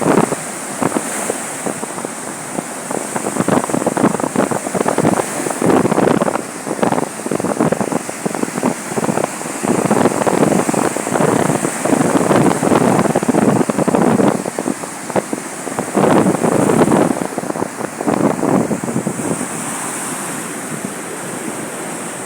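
Sea surf washing onto a beach, with gusts of wind buffeting the microphone in uneven surges every second or two.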